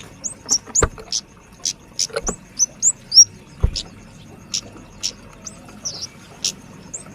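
Young kemade flowerpecker calling busily, a quick string of short, sharp, high chips, some with a little downward slide. Three soft low thumps fall in among them.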